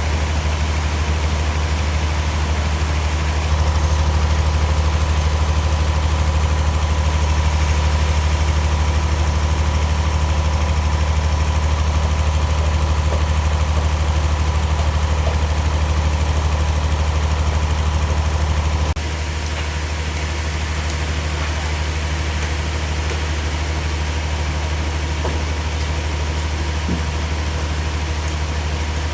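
A heavy engine-driven machine running steadily with a deep, even hum. About two-thirds of the way through, the level drops a little and a thin high whine stops.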